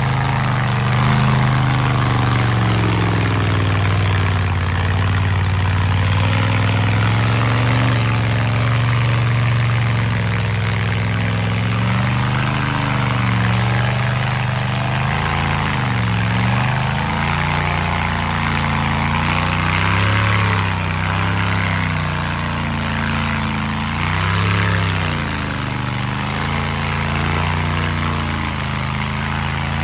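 Mega mud truck's big engine running loud and under load. The engine note holds high, dips briefly about halfway through, then recovers, and rises and falls a few more times later on.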